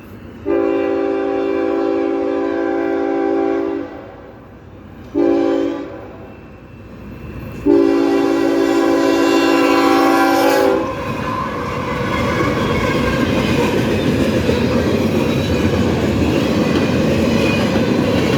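Freight locomotive air horn sounding a chord in three blasts: long, short, long. Then the train rolls past, a loud rumble with wheels clattering over the rail joints.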